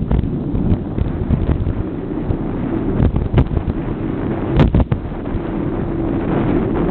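Wind buffeting the microphone on a moving bike: a steady low rumble with a few sharp knocks, the loudest a little over four and a half seconds in.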